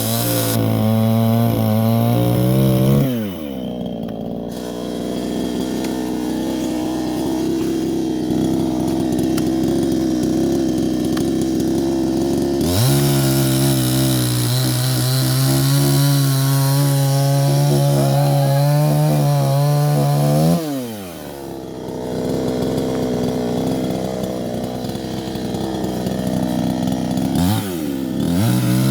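Two-stroke chainsaw running: a steady high-revving pitch alternates with longer stretches at lower, wavering revs. It drops about three seconds in, climbs back near the middle, drops again about two-thirds through and climbs once more near the end.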